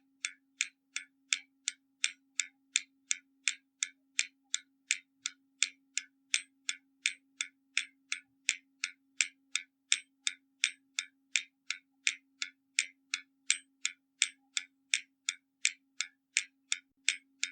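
Hermle mechanical skeleton clock ticking, a steady, even beat of about three crisp ticks a second.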